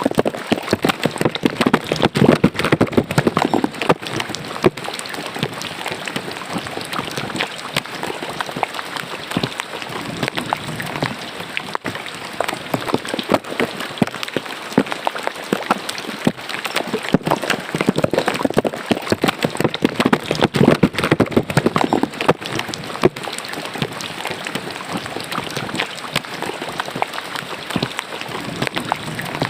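Rain falling into a roadside drainage ditch: a dense, steady patter of drops splashing into the water, swelling a little heavier a couple of seconds in and again just past the middle.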